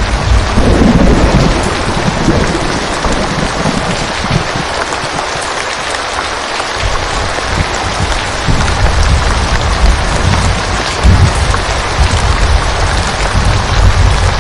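Steady rain falling in a forest, with the low rumble of distant thunder that swells in the first couple of seconds, dies down briefly near the middle, and rolls in again over the second half.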